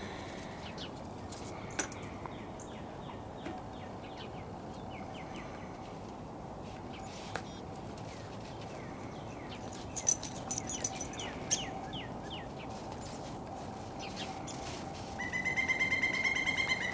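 Pileated woodpecker calling near the end: a fast, even series of loud repeated notes lasting about a second and a half. Small birds chirp and chip throughout, with a burst of high chips about ten seconds in and a sharp click about two seconds in.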